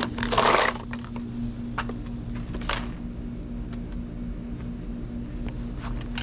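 A steady low machine hum runs throughout. A short burst of handling noise comes about half a second in, and a couple of light knocks follow.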